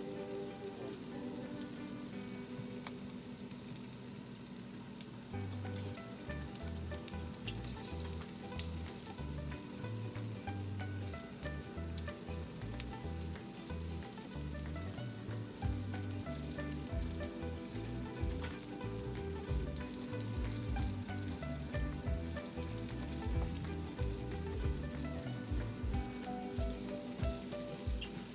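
Chicken pieces deep-frying in hot oil, a steady crackling sizzle. Background music with a low, stepping bass line comes in about five seconds in.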